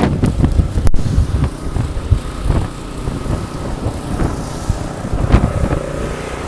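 Strong gusty wind buffeting the microphone in a sleet storm, a loud uneven low rumble that eases somewhat after the first couple of seconds, with a faint steady hum underneath.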